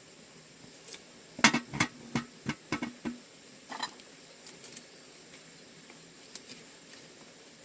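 A quick run of about seven sharp knocks, roughly three a second, then a single scraping stroke, over a steady high insect drone.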